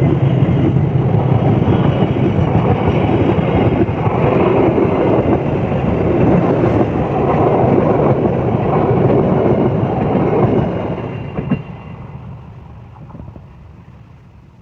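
Train behind a CC206 diesel locomotive rolling past at close range: a steady loud rush of cars and wheels on the rails. After about ten seconds it fades away as the train recedes, with one sharp click shortly after the fade begins.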